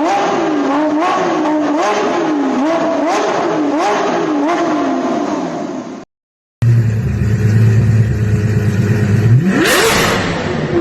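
Sports car engines revving in two short exhaust clips. First comes a run of quick repeated revs, rising and falling in pitch over and over. After a brief cut, an engine idles low and is revved hard once, about nine seconds in, before dropping back.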